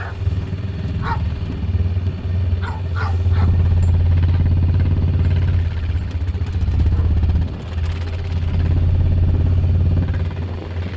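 Four-wheeler (ATV) engine running steadily, getting louder twice for a few seconds as it is revved or put under load. A few short, high sounds come near the start.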